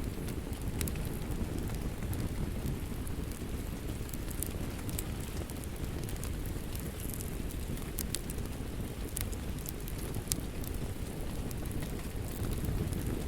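Wood fire crackling in a fireplace: a steady low rush of flames with scattered sharp pops and snaps, a few louder ones standing out.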